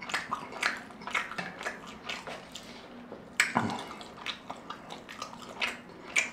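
Close-miked chewing: wet mouth clicks and smacks, several a second, with a louder click about three and a half seconds in.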